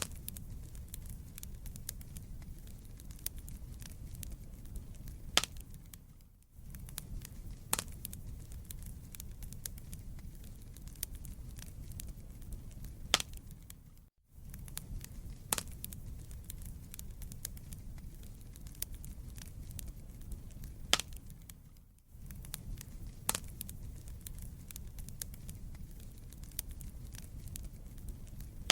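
Wood fire burning in a fireplace: a steady low rumble with scattered sharp crackles and pops from the burning logs, a few of them much louder. The sound dips briefly about every eight seconds.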